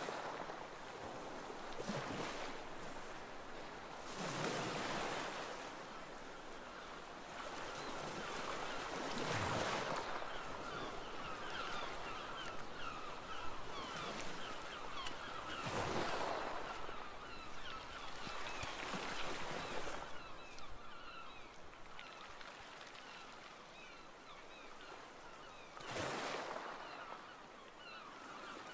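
Waves breaking and washing up a shore, swelling every few seconds, with gulls calling repeatedly over the surf.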